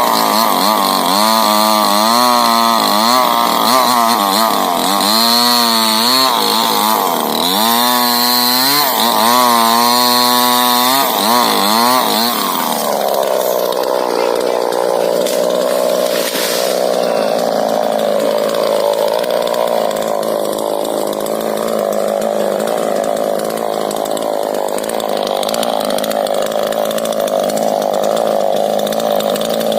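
Two-stroke chainsaw cutting into a rubber tree, its engine pitch rising and falling under load. About twelve seconds in, the engine slides down to a lower, steadier speed and keeps running.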